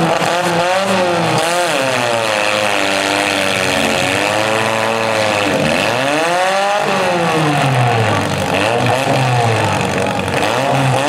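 Demolition derby car engines revving hard, their pitch climbing and falling again and again, with at least two engines running at different pitches at once.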